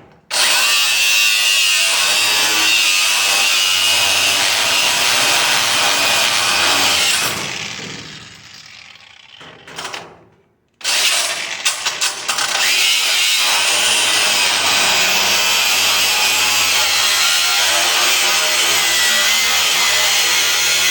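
Angle grinder cutting into the stainless steel of a restaurant dishwasher, a loud steady grinding with a high whine. About seven seconds in it is let off and winds down over a few seconds. About eleven seconds in it starts again and cuts steadily until near the end.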